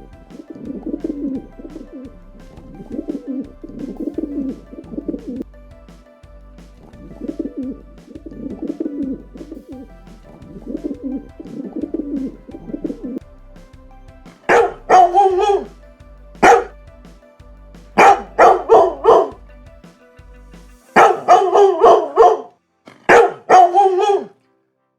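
A pigeon or dove cooing in repeated low calls for the first half. A dog then barks, loud short barks in quick clusters of two to four, over faint background music.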